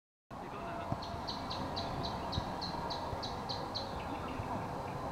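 A bird calling a fast run of high chirps, about four a second, over steady outdoor background noise.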